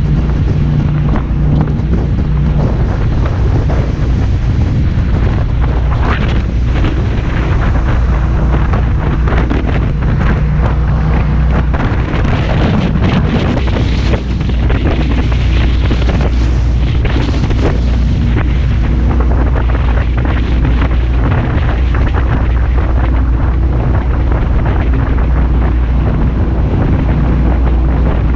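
Jet boat running steadily under way, its engine a constant low hum, with heavy wind buffeting the microphone.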